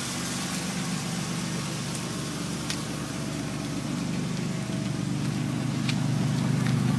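Oldsmobile 98's 3.8-litre V6 idling steadily, with a few faint ticks, getting a little louder over the last couple of seconds. The owner puts a noise from the engine down to the timing belt.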